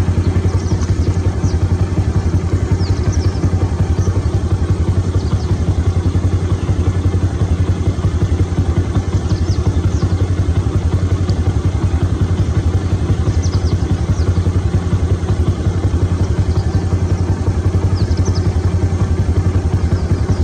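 A vehicle engine idling with a steady low hum, with faint short high chirps now and then above it.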